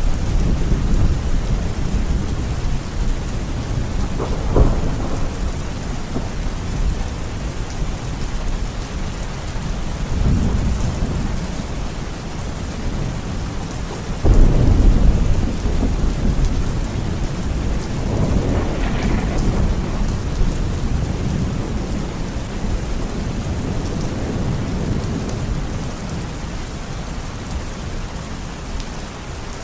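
Steady rain falling during a thunderstorm, with several rolling rumbles of thunder. The loudest comes on suddenly about halfway through.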